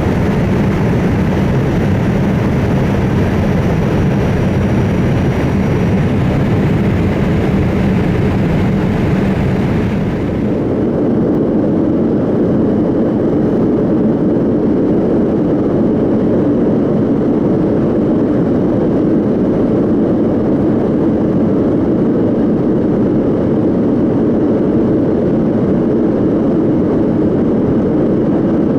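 Steady jet engine and airflow noise heard inside the cabin of a Boeing 787-8 with General Electric GEnx-1B engines. About ten seconds in, the hissing upper part drops away abruptly, leaving a lower, even rumble.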